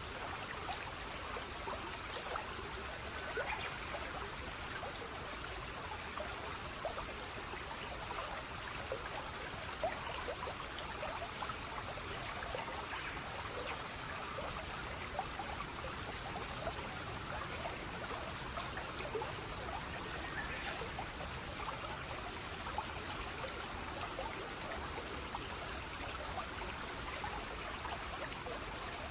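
Steady running water of a small stream trickling and splashing, dense with little droplet ticks. Faint high repeated notes come in twice, in the second half.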